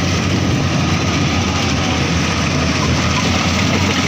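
Rice combine harvester's diesel engine running steadily, a constant low hum with no change in pitch or level.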